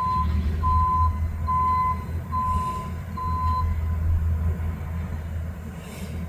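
A high-rail truck's backup alarm beeping about five times at an even pace, stopping about three and a half seconds in, over the steady low idle of the truck's engine while it is being set onto the rails.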